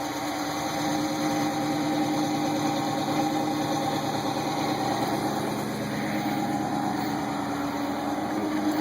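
2012 Dodge Charger R/T's 5.7-litre HEMI V8 idling steadily just after start-up, heard through its exhaust with a shortened mid muffler.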